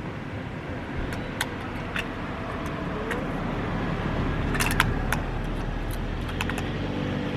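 Car traffic rumbling past, swelling in the middle, with several sharp metallic clicks and clinks of a door key being handled.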